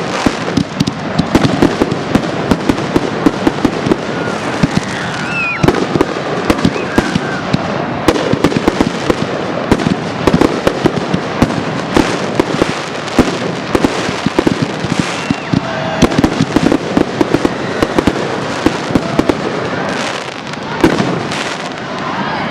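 Fireworks finale: a dense, unbroken barrage of aerial shells bursting several times a second, with crackling and a few brief whistles.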